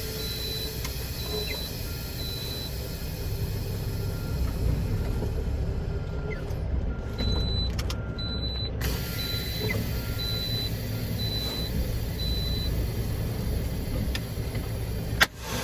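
Semi-truck diesel engine running steadily, with a repeating electronic warning beep in short, evenly spaced pulses that pauses midway and then resumes.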